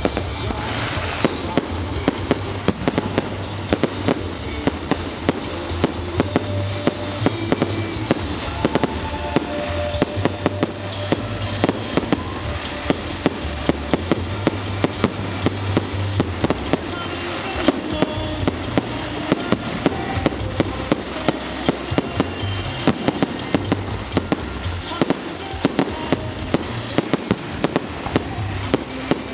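Fireworks display finale: a dense, continuous barrage of sharp bangs and crackles, shells bursting in rapid succession all the way through.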